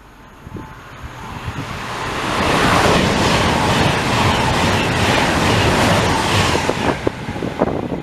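A train passing at speed: a rushing noise of wheels and air that builds over about two seconds, stays loud for about four, then drops away near the end into scattered knocks and wind buffeting on the microphone.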